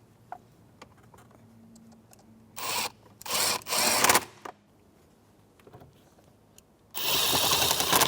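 Cordless drill-driver with a T20 Torx bit on an extension, running screws in: short spurts of whirring, three in quick succession and a longer one of about a second near the end.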